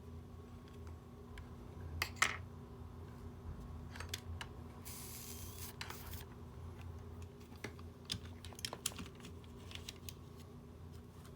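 Small, scattered clicks and taps of tools handling the tiny parts of a smartwatch during a side-button repair. A brief hiss comes about five seconds in, over a steady low hum.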